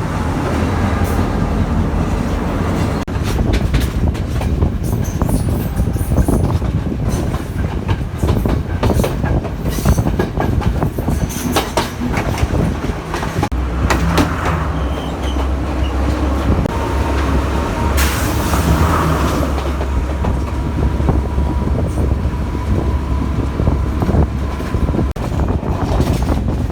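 A train running along the track: a heavy low rumble with the clatter of wheels over rail joints. A thin steady whine joins for several seconds in the second half.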